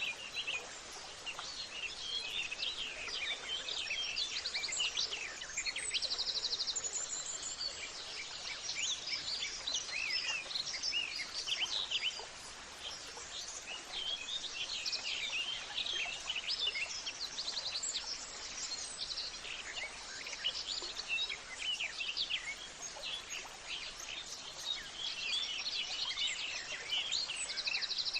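A chorus of many songbirds chirping and calling together over a steady background hiss, with short rapid trills every several seconds.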